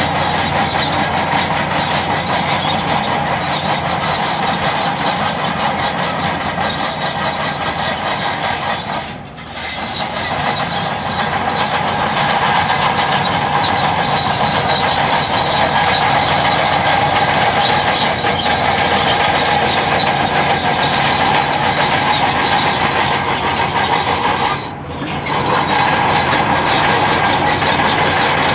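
Bulldozer's diesel engine running steadily under load, with track and machinery noise. The sound drops out briefly twice.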